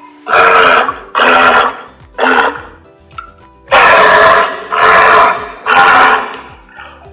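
Walrus calling in a series of six rough, roaring bellows, each about half a second to a second long, with a longer pause midway, over faint background music.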